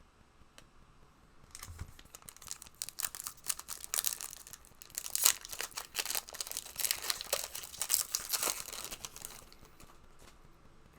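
A trading card pack wrapper being torn open and crinkled in the hands: a dense run of sharp crackles and tearing that starts about a second and a half in and stops shortly before the end.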